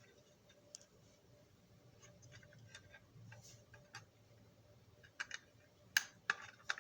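Small metal screws clicking and clinking as they are picked through and handled. The clicks are faint and scattered, with a few sharper ones near the end.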